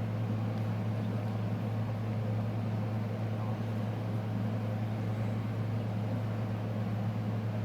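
A steady low mechanical hum that holds the same level throughout, with no other distinct events.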